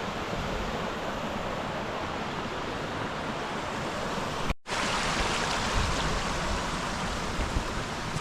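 Mountain river rushing over small cascades: a steady rush of water that drops out for a moment a little past halfway and resumes.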